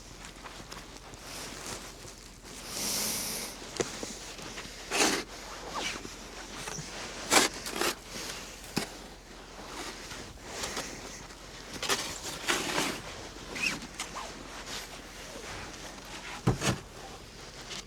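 Snow shovel scraping and scooping through light, powdery snow in irregular strokes, with a dozen or so short sharp scrapes.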